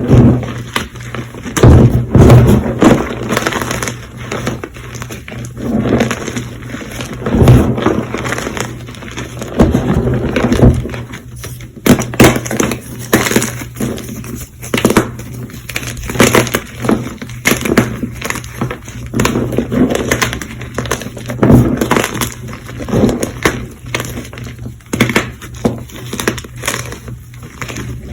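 Close-miked blocks of semi-squeaky gym chalk being crushed, giving a long irregular run of crunches and crackles.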